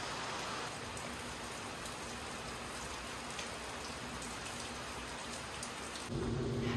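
Steady rain falling on the ground outside, an even hiss with faint scattered drop ticks. Near the end it gives way to a steady low hum.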